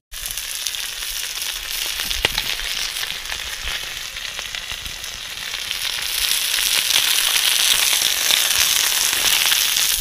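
Chicken drumettes frying in hot oil in a plow-disc pan over a wood fire: a steady sizzle with a few sharp pops. The sizzle grows louder about six seconds in.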